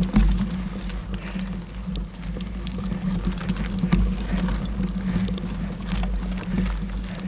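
Mountain bike rolling along a dirt trail: a steady low rumble and hum from the tyres and ride, with scattered small clicks and rattles from the bike.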